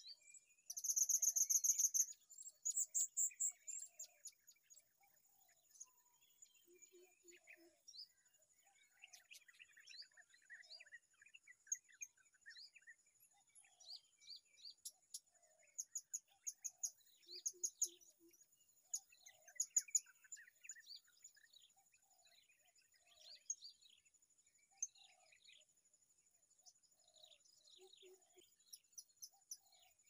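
Small birds chirping. A loud, rapid burst of high squeaky notes comes about a second in, then scattered high calls follow, over a steady high insect whine.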